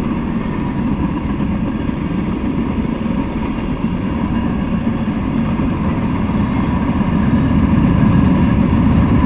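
Freight cars (covered hoppers, a tank car, gondolas) rolling past on the rails: a steady rumble of steel wheels on track, growing a little louder near the end.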